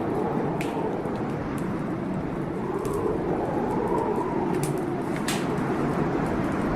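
Heavy blizzard wind blowing steadily, its howl slowly rising and falling in pitch, with a wood fire crackling in a fireplace: scattered sharp pops and snaps throughout, one of the loudest a little after the middle.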